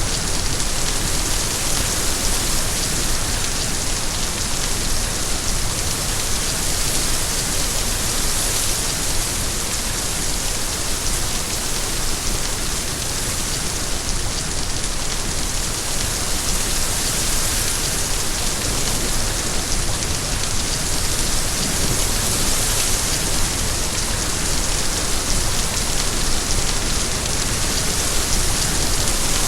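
Steady heavy rain, a dense even hiss of drops falling on a surface, with no letting up.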